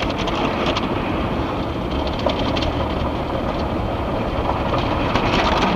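Automated tunnel car wash working over the car, heard from inside the cabin: a steady rushing of water and machinery with runs of rapid clattering against the body near the start and again near the end.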